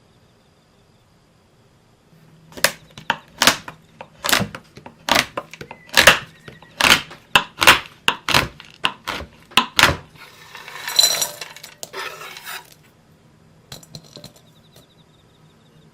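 Dark chocolate being broken into pieces: a series of about a dozen sharp cracks, roughly two a second, followed near the end by about two seconds of rustling noise.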